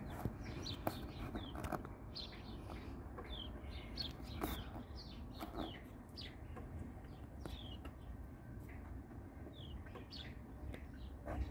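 Birds chirping, short falling notes repeated irregularly throughout, over a steady low background rumble.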